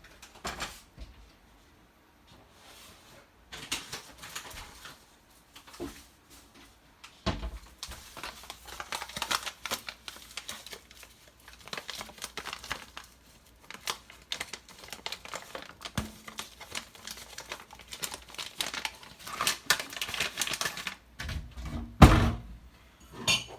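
Crinkling and rustling of coffee packaging being handled, with irregular light clicks and a few louder knocks against the work surface.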